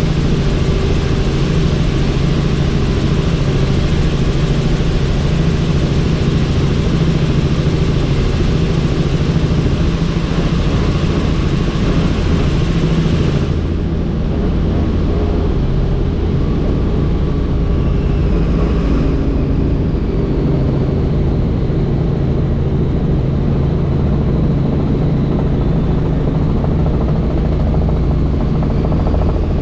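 Helicopter in flight, heard from on board: a steady, loud engine and rotor drone under a rushing hiss. The hiss drops sharply about halfway through while the drone carries on.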